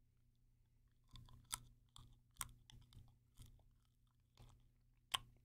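Faint mouth sounds of chewing on a whole boiled peanut in its soft shell: a string of quiet wet clicks and small crunches, a few of them sharper.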